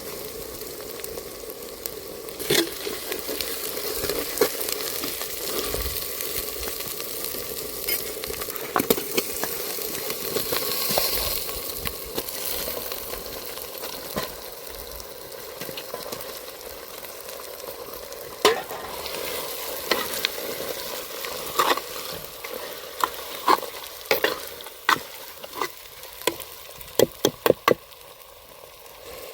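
Pepper chicken frying and sizzling in a pan while it is stirred, the utensil clicking and knocking against the pan; a quick run of sharp taps comes near the end.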